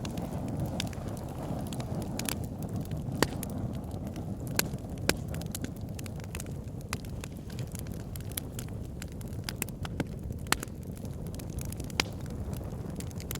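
Campfire crackling: sharp, irregular pops of burning wood every second or two over a steady low rumble of the fire.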